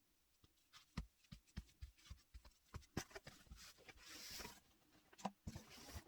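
Faint handling sounds of T-shirt fabric and pins: scattered light clicks and taps, with a short rustle of cloth about four seconds in.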